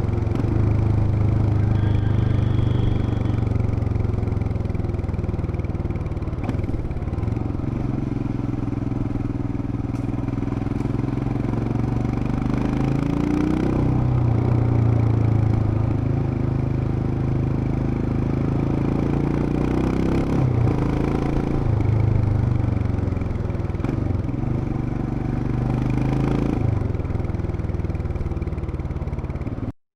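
Royal Enfield Himalayan BS6's 411 cc single-cylinder engine running under way, its exhaust note rising and falling several times as the bike accelerates and shifts gear. It cuts off suddenly near the end.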